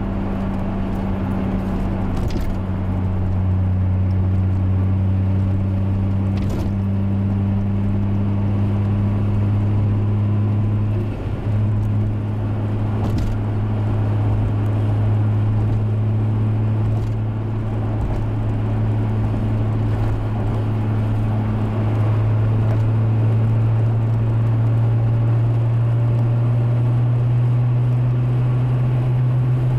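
Toyota Supra's turbocharged 1JZ inline-six running steadily under way, a constant drone whose pitch climbs slowly as engine speed rises. The level dips briefly about eleven seconds in.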